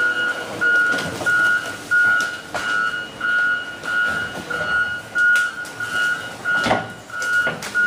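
Backup alarm of a work vehicle beeping steadily, a little under two beeps a second, over vehicle noise, with a few sharp knocks; the loudest comes near the end.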